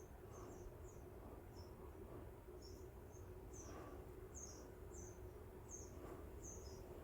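Faint background bird chirping: short, high, downward-sliding chirps repeated irregularly about every half second, over a faint steady low hum.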